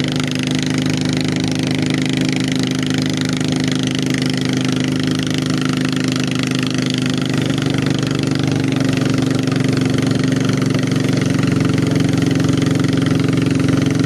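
ZS Power Pro Quip boat engine running steadily at an even speed, getting a little louder from about halfway through.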